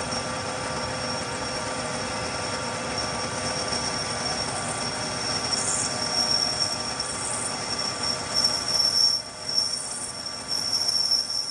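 Metal being cut on a machine tool: a steady machine running sound with a high-pitched squeal from the cut that pulses on and off and grows stronger through the second half.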